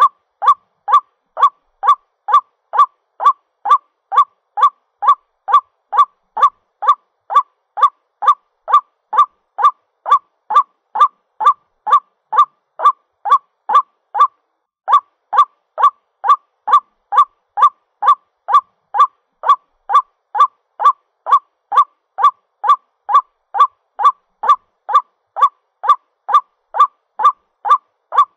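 White-breasted waterhen's call, played as a lure recording: short calls repeated at an even pace, about one and a half a second, with a brief pause about halfway. It is the call a waterhen gives to its mate.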